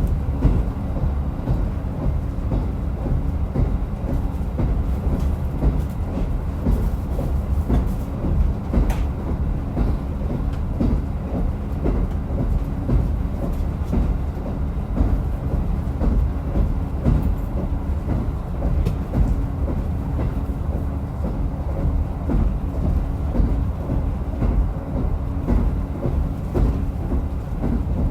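Diesel railcar running along the line: a steady engine drone over the rumble of wheels on the track, with a few faint clicks from the rail joints.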